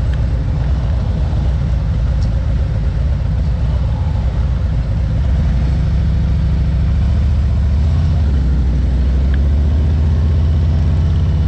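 Motorcycle engine running as the bike rides along, heard from a camera on the bike itself; the low engine rumble grows louder and steadier about six seconds in.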